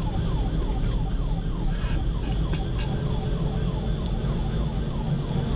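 Police car siren on a fast yelp, a falling wail repeating about three times a second, over steady engine and road rumble.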